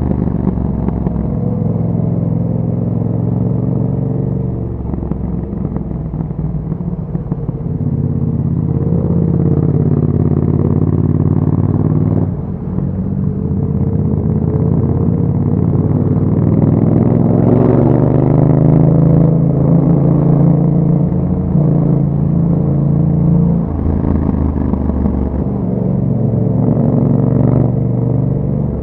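2021 Yamaha MT-07's parallel-twin engine through an Akrapovic exhaust, heard while riding: it pulls up in pitch, eases off and picks up again several times. The drops in level read as shifts or throttle lifts.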